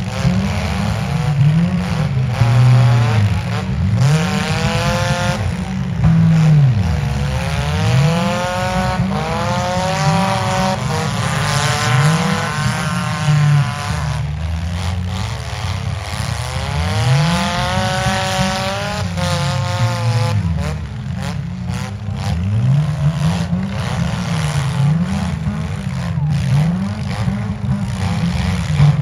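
Several demolition derby cars' engines revving hard at once, their pitch repeatedly climbing and falling over a heavy low rumble, with scattered short bangs of cars hitting each other.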